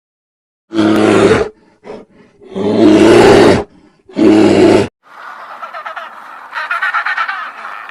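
A big cat gives three loud, deep roars, each lasting under about a second. About five seconds in, a flock of waterfowl starts up a rapid honking chatter.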